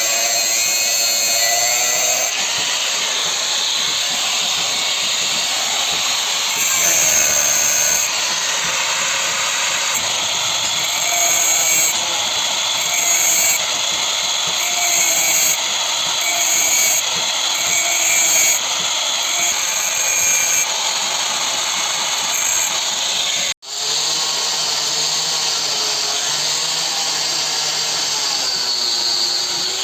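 Electric power tool grinding steel, running continuously with its pitch wavering as the load changes. The sound drops out for an instant about three-quarters of the way through and carries on.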